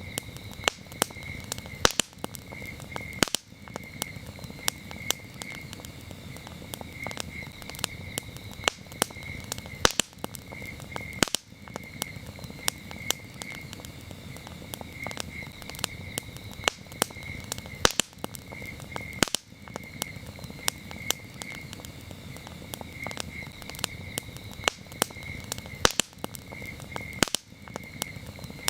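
Wood campfire crackling, with frequent sharp pops and snaps over a low rush of burning. Crickets chirp throughout in short repeated trills.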